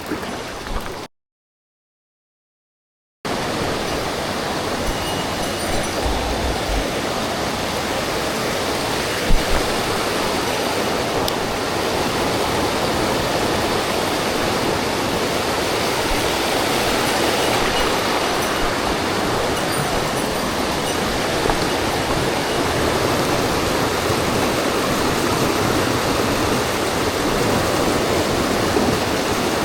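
Mountain stream water rushing steadily, an even hiss of flowing water. The sound drops out to dead silence for about two seconds soon after the start, and there is one small knock about a third of the way in.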